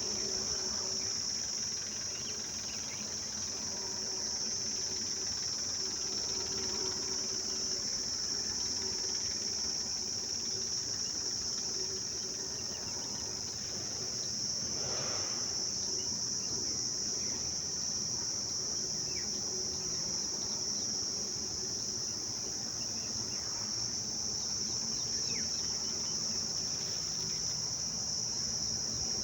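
Insects chirring in a steady, unbroken high drone.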